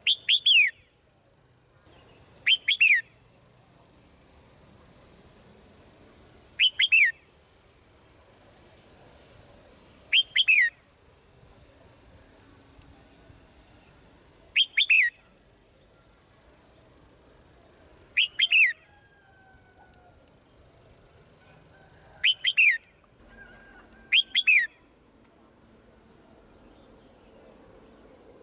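Swallow calls: short groups of two or three quick chirps that sweep down in pitch, repeated eight times at intervals of two to four seconds, over a steady high-pitched hiss.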